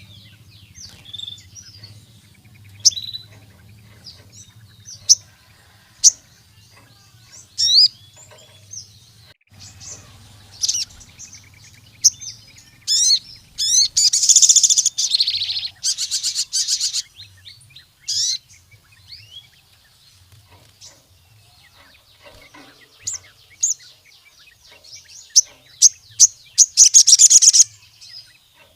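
A sogon sunbird singing: scattered high, sharp chirps, with fast rattling trills about halfway through and again near the end. The trills are the loudest part. A faint low hum runs underneath early on.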